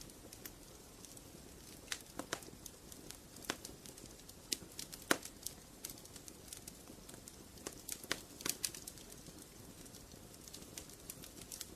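Wood fire in a fireplace crackling: irregular sharp snaps and pops over a low steady hiss of the flames, with the loudest pop about five seconds in.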